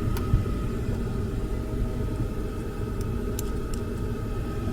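Gas furnace running, its burner and blower making a steady low rumble with a faint steady high tone above it. A few light clicks of handling come through.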